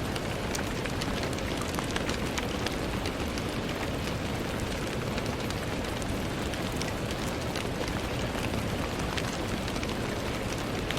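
Steady rain striking a window, an even hiss dotted with many sharp ticks of single drops.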